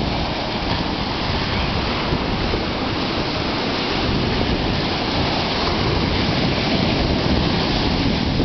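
Heavy ocean surf breaking and churning, a loud steady rush, with wind buffeting the microphone.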